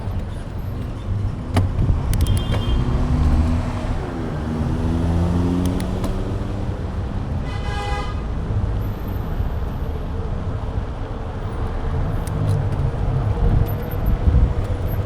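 Road traffic and wind rumble buffeting a bike-mounted camera's microphone. A motor vehicle passes with its pitch sliding a few seconds in, and a short horn toot sounds about halfway through.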